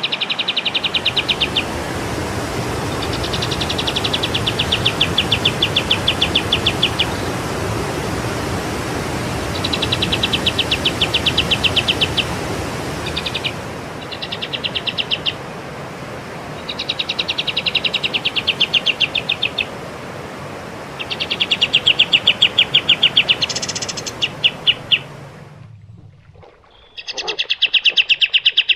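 A songbird repeating fast, even trills of high, rapid notes, each trill lasting one to three seconds with short gaps between, over a steady background rumble that drops away near the end.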